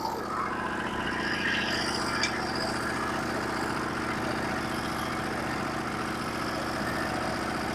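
Norwood HD36v2 portable band sawmill's engine running steadily.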